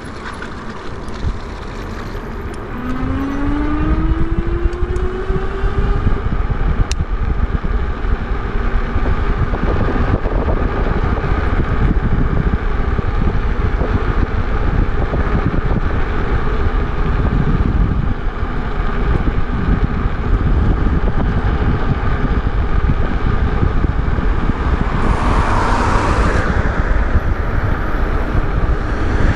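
Wind rushing over the microphone and road noise from a moving e-bike, with a whine that rises in pitch a few seconds in as the ride gets louder.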